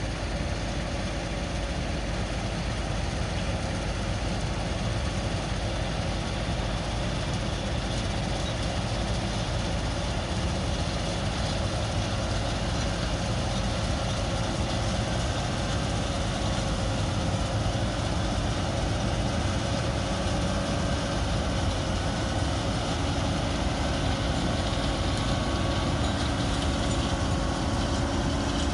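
A vehicle's engine running steadily with continuous road noise and a few faint steady tones over it, the sound of driving along at an even speed.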